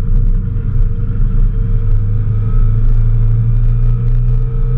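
Mazda Miata's four-cylinder engine running hard at steady revs, heard from inside the cabin, with a steady pitch.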